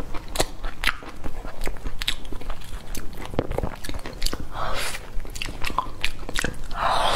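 Close-miked chewing of soft durian flesh: frequent wet mouth clicks and smacks, with a couple of longer, louder mouth noises near the middle and the end.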